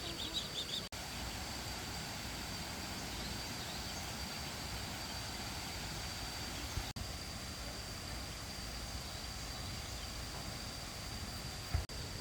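Steady outdoor rural background noise with a thin, unbroken high tone, and a few high duckling peeps right at the start; the sound drops out sharply three times, at about one, seven and twelve seconds in.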